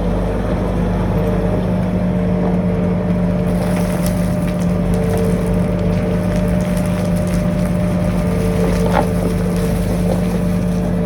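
Skid steer's diesel engine running steadily under load, with a constant deep drone. From about three seconds in, rattling and scraping clatter joins it.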